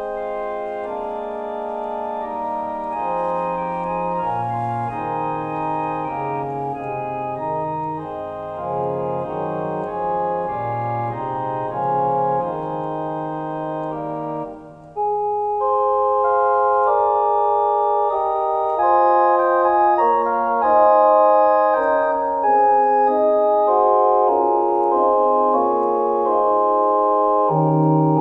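Organ music of slow, sustained chords, the closing music of a worship service. About halfway through the music moves into a new, louder section.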